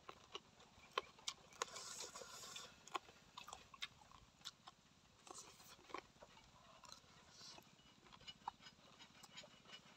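Faint eating sounds of a man chewing chicken feet: scattered wet clicks and lip smacks, with a short hiss about two seconds in.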